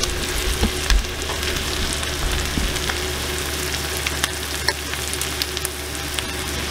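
Corned beef hash sizzling in a hot skillet, with frequent small crackling pops.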